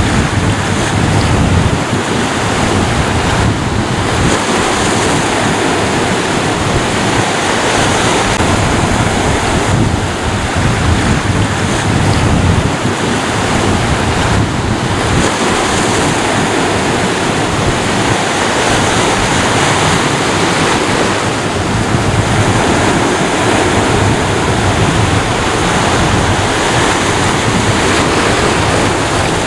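Ocean surf: waves breaking and washing up the shore in a continuous, steady roar of water with slow swells in loudness, and wind on the microphone.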